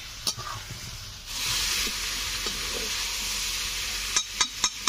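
Chicken and potato pieces sizzling in spice masala in a wok. The sizzle grows much louder about a second in, and near the end a quick run of spatula knocks hits the pan.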